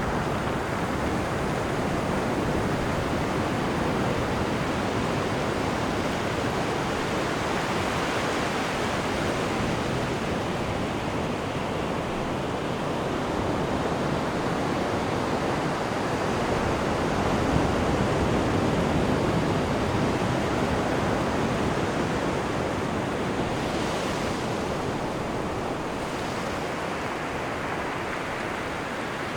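Cruise ship's wake seen from the stern: a steady rushing of churned sea water that swells slightly a little past the middle.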